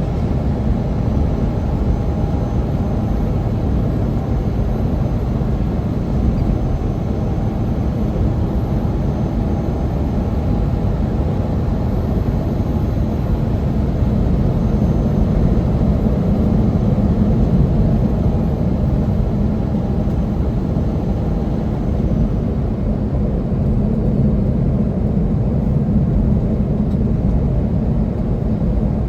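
Steady low rumble of a heavy semi truck's engine and road noise on a mountain climb, with a faint whine that fades out a little over twenty seconds in.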